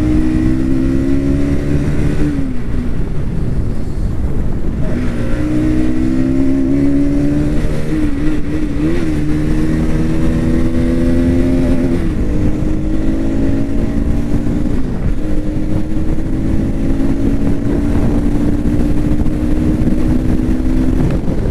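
Bajaj Pulsar NS200 single-cylinder engine running hard at speed, its note climbing slowly. It falls away about two seconds in, picks up again near five seconds, then holds fairly steady with small rises and dips, over a steady rushing noise.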